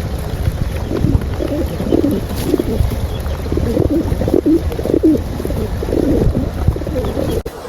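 Pigeons cooing, many short calls overlapping one after another, over a steady low rumble. The sound cuts off suddenly near the end.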